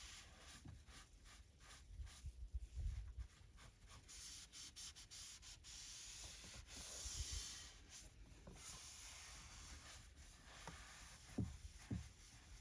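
Microfiber cloth rubbing over car interior surfaces in a series of faint wiping strokes, with a few soft low bumps as the cloth and hand knock against the trim.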